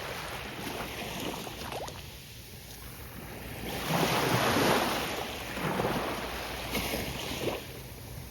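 Gentle ocean waves breaking on a beach: one wave crashes about four seconds in and washes up the shore, with smaller rushes of surf after it, over a steady wash of sea and light wind on the microphone.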